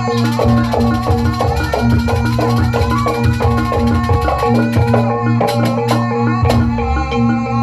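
Jaranan gamelan ensemble playing: repeating pitched metallophone and gong tones over drumming, with a rapid high clashing rhythm that stops about five seconds in.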